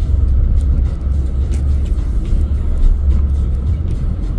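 Steady low rumble of a pickup truck's engine and drivetrain heard from inside the cab, with a few faint ticks over it.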